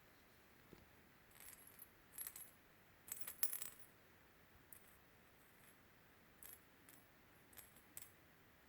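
Faint, light metallic jingling and clinking in about seven short, irregular bursts, loudest about three seconds in: a jingling toy being batted around by kittens at play.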